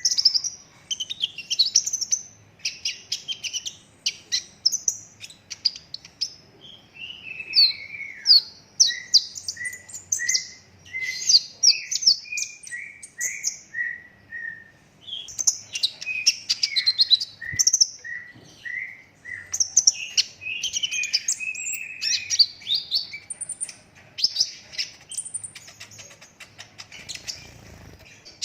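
Olive-backed sunbird singing a fast, unbroken stream of high chirps and trills. In the middle comes a run of short, evenly spaced descending notes, about two a second.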